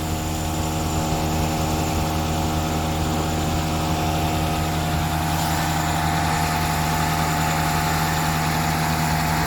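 Toyota Sera's engine idling steadily, heard with the bonnet open.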